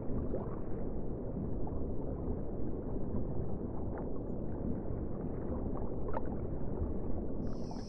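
Steady low, muffled water rumble of underwater ambience around swimming manatees, with a few faint clicks.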